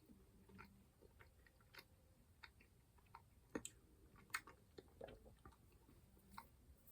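Faint chewing of gummy sweets: soft, irregular wet mouth clicks.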